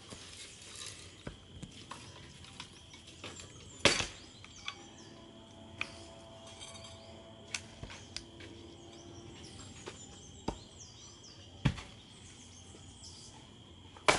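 Scattered sharp knocks and snaps of firewood and sticks being handled and broken, about six in all, the loudest about four seconds in. Birds chirp faintly behind a steady high hum.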